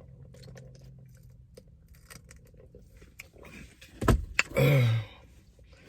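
Small clicks and mouth noises of someone chewing food, with a sharp knock about four seconds in and a brief hummed voice sound just after it.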